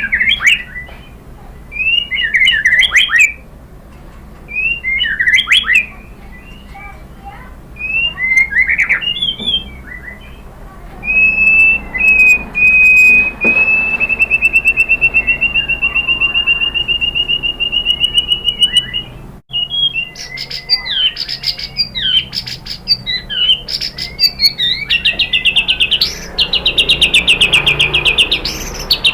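White-rumped shama singing. Short varied whistled phrases come every couple of seconds, then a long fast trill held for about eight seconds that rises slightly in pitch. After a brief break come more phrases and another fast trill near the end.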